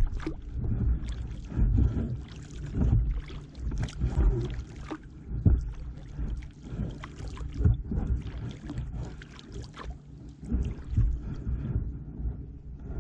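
Kayak paddle strokes dipping and splashing in the water, one after another every second or two, over a steady low rumble.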